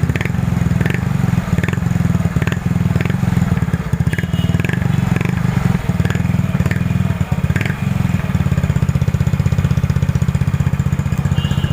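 Yamaha Mio i 125 scooter's single-cylinder four-stroke engine idling steadily through an aftermarket performance exhaust pipe, with an even low pulse and no revving; it cuts off suddenly at the end.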